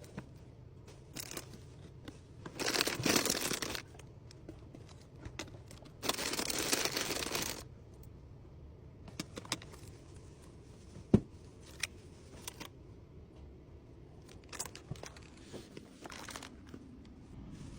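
Packaging crinkling and rustling as small accessories are handled and packed, with two longer rustles about three and six seconds in. Light clicks and taps are scattered through, with one sharper knock near the middle.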